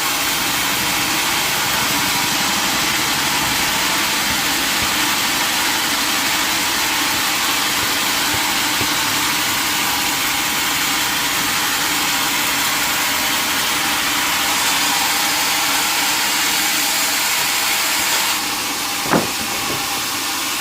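Sawmill engine running steadily, with one sharp knock near the end.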